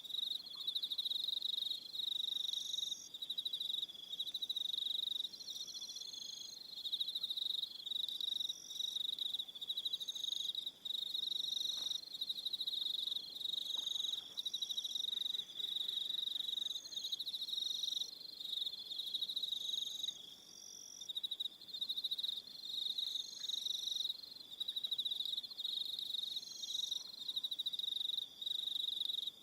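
Several crickets chirping together: a steady high trill with overlapping pulsed chirps about a second long that keep starting and stopping.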